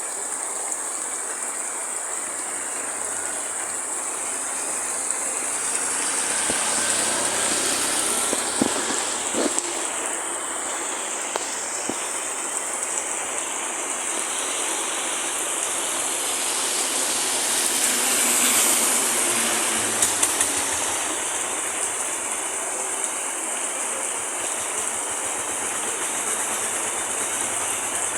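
Heavy rain falling in a steady hiss, swelling louder twice, with a few sharper taps of drops.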